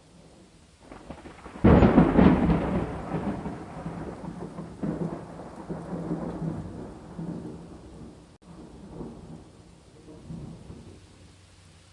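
A thunderclap over steady rain: a sudden loud crack a little under two seconds in, then a rumble that dies away over the following seconds.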